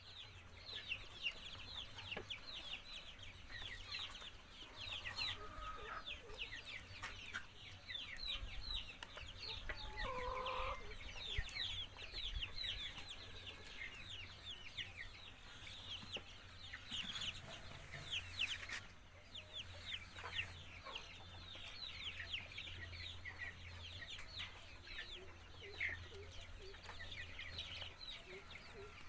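A flock of poultry calling without pause: many short, high calls overlap densely, with a couple of lower, longer calls about five and ten seconds in, over a steady low hum.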